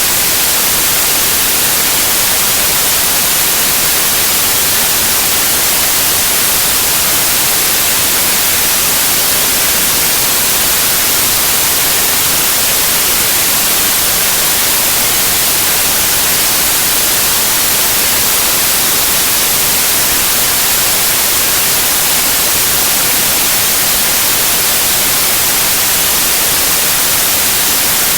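Steady white noise, an even hiss with most of its energy in the high frequencies, unchanging throughout.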